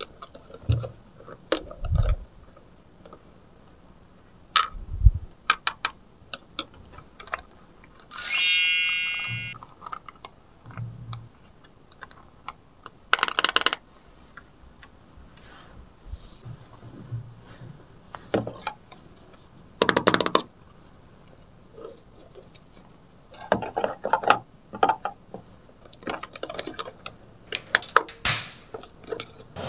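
Light clicks, taps and clatter of plastic toy-kitchen pieces (toy food, a plate, a frying pan and spatula) being picked up and set down. One bright ringing clink about eight seconds in, fading over about a second.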